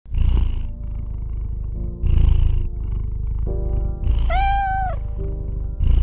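Kitten purring, a close, steady rumble that swells about every two seconds with its breathing, over soft background music.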